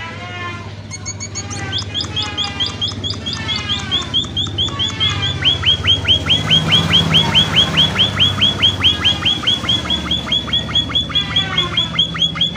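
Emprit (munias, small seed-eating finches) calling, with short high chirps overlapping at first, then settling about five seconds in into a fast, regular run of down-slurred notes, about five a second.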